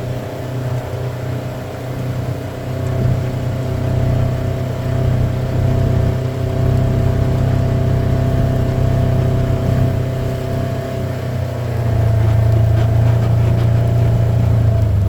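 A farm buggy's engine running steadily. About twelve seconds in its note changes and it gets a little louder.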